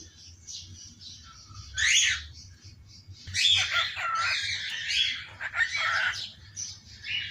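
Pet parrot calling in a hoarse voice: a single short squawk about two seconds in, then about three seconds of rapid raspy chattering calls, and one more call near the end.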